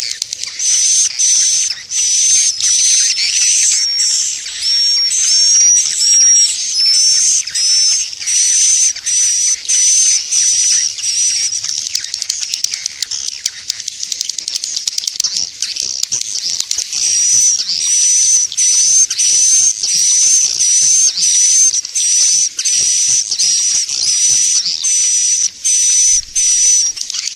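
Swiftlet lure call: recorded swiftlet chirps repeating about twice a second, each a raspy buzz with a thin high squeak on top. The chirps thin out for a few seconds midway, then resume. Swiftlet farmers play this call to draw edible-nest swiftlets into a bird house.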